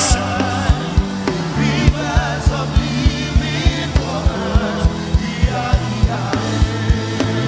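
Gospel worship band music: a steady beat of about three drum thumps a second under sustained low notes, with faint singing over it.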